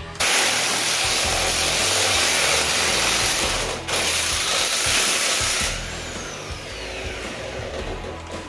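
Power tool run in two bursts of steady high-speed noise, the second stopping about five and a half seconds in, after which the tool winds down with a faint falling whine. Background music plays underneath.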